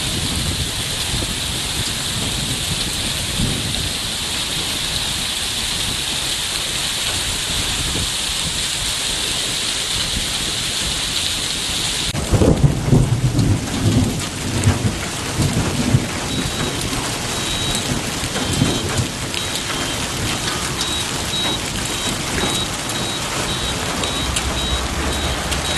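Heavy rain falling steadily in a thunderstorm. About halfway through, a sudden thunderclap cracks and then rolls into low rumbling that dies away over several seconds.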